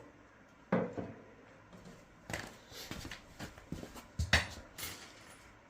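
Scattered knocks and clicks of small dryer parts being handled, the old drum roller, washers and hardware, with the loudest knock about four seconds in.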